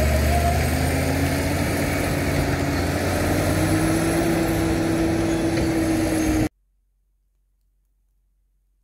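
Caterpillar D7 bulldozer's diesel engine running steadily, with a whine that slowly rises in pitch over its drone. The sound cuts off abruptly about six and a half seconds in, leaving near silence.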